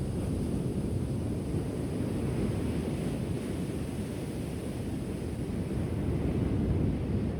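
Ocean surf washing onto the shore: a steady low rush of breaking waves that swells twice.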